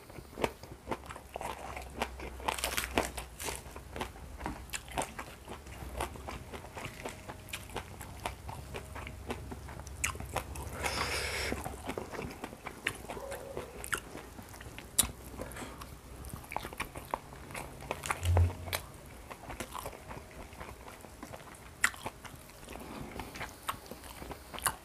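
Close-miked chewing and biting of a mouthful of crisp-fried carp with rice, with frequent small wet clicks and crunches. The fish is fried so crisp that its bones crunch too.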